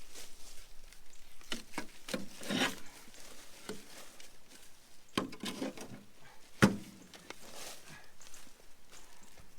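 Irregular scrapes, rustles and knocks of hands and tools working on the buried car and the dirt around it, with one sharp knock about two-thirds of the way through.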